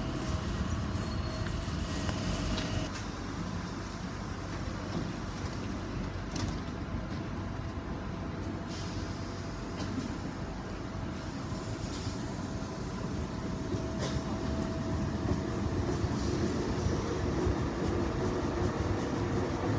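Tyne and Wear Metrocar train running: a steady rumble with a faint steady hum, growing a little louder toward the end.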